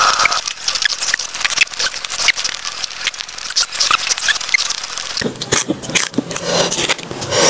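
Close-up eating sounds: a person biting and chewing raw young pisang batu banana with sambal rujak, a dense run of wet mouth clicks and smacks, heavier from about five seconds in. Fingers scooping sambal from a stone mortar can be heard near the start.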